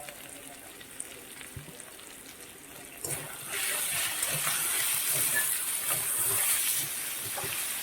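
Chicken and potatoes frying in a pan. A steady sizzling hiss comes in about three seconds in and grows loud.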